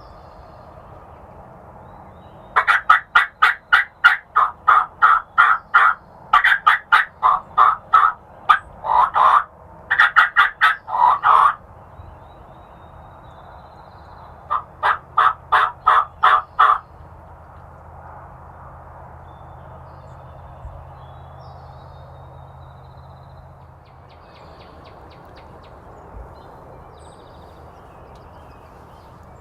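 Wild turkeys yelping: loud runs of quick, evenly spaced yelps, about four a second. Three runs follow one another over about nine seconds, and a shorter run comes a few seconds later.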